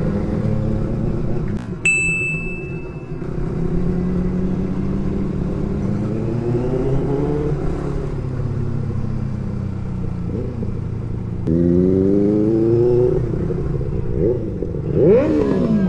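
Motorcycle engine running through traffic, its pitch rising twice as it revs and accelerates and swooping up and down near the end. A short high ding sounds about two seconds in.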